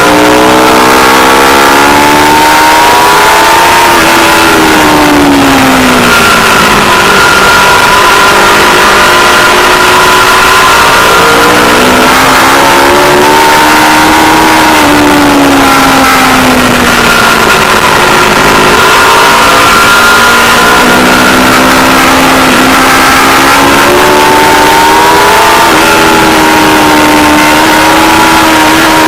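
Aprilia Tuono V4 Factory motorcycle's V4 engine at racing pace, its pitch climbing hard under acceleration and falling away when braking, several times over. A constant rush of wind noise on the camera's microphone runs beneath it.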